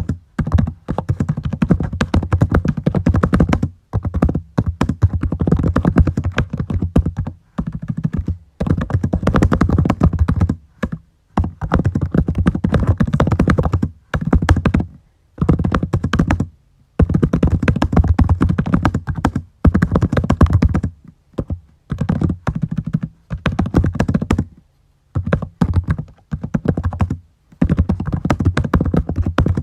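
Fast typing on a computer keyboard, in runs of a second or few with short pauses between them.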